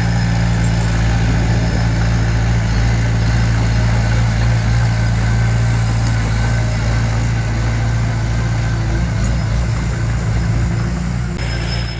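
Diesel engine of heavy earthmoving equipment running steadily, a low even drone. The sound changes abruptly near the end.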